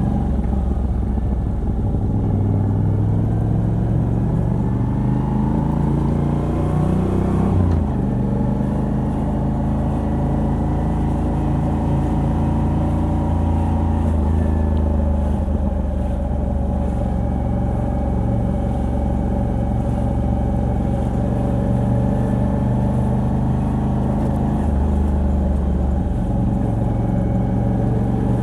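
Moto Guzzi V85TT's air-cooled 853 cc transverse V-twin, on the stock exhaust with a decat pipe, pulling under way: its note climbs steadily for several seconds, drops abruptly about eight seconds in at a gear change, then holds a steady cruise.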